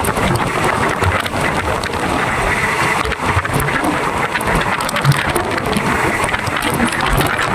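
Passenger train running on the rails: steady loud running noise with many quick rattles and knocks, and wind rushing.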